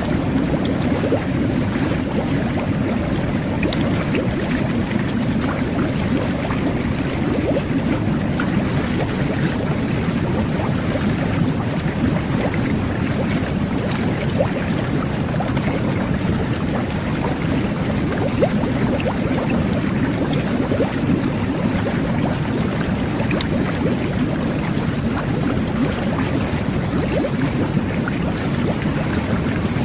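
Jetted bubble bath (jacuzzi) running: water churning and bubbling steadily, a low rush with many small pops throughout.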